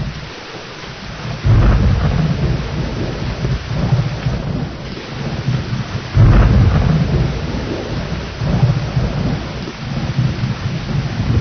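Thunderstorm: steady rain with rolling thunder. Two sudden loud claps break in, one about a second and a half in and one about six seconds in, each rumbling on for several seconds.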